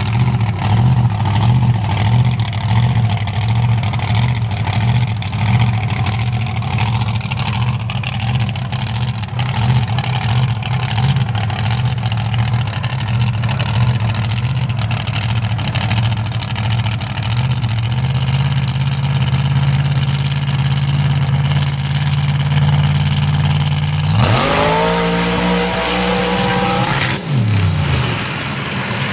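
A truck engine running steadily at a fast idle, then revved hard about three quarters of the way through, its pitch climbing sharply and holding high for about three seconds before dropping back.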